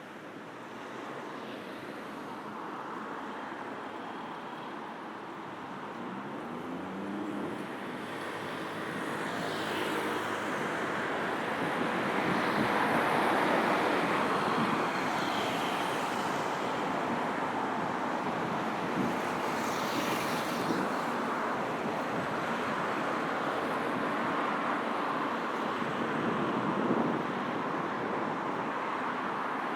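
Steady city road traffic, with individual cars and other vehicles passing one after another. It grows louder over the first dozen seconds.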